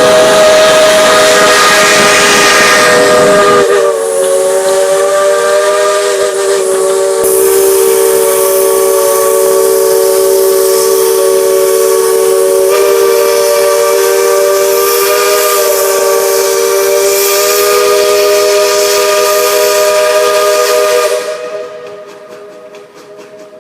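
Steam locomotive's chime whistle blowing one long sustained blast, several notes sounding together as a chord, with a rush of steam hiss in the first few seconds; the whistle cuts off about three seconds before the end.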